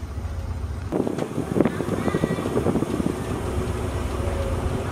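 Diesel passenger train standing at a platform: a steady low engine rumble, joined about a second in by irregular clanking and rattling.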